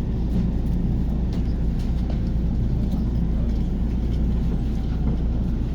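Steady low rumble of an electric commuter train running at speed, heard from inside the carriage: wheels on the rails, with a few faint clicks.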